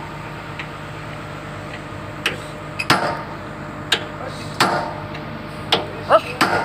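Hammer blows on steel, about seven sharp ringing strikes spaced irregularly from a little over two seconds in, as the bucket pins and bushings are driven into place. Under them, a steady low engine hum from the idling Komatsu PC200-7 excavator.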